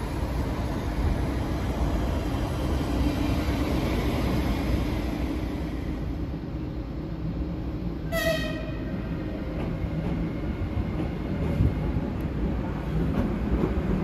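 A passenger train running on the rails, a steady low rumble, with a short horn toot about eight seconds in.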